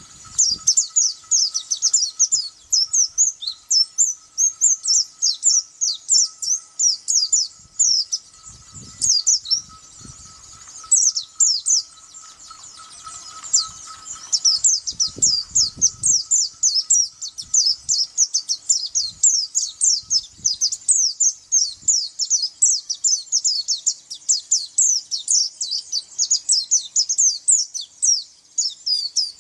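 Pleci (white-eye, a small Zosterops songbird) singing a fast, continuous song of high, quick downward-sliding chirps, several a second, with a short break about twelve seconds in.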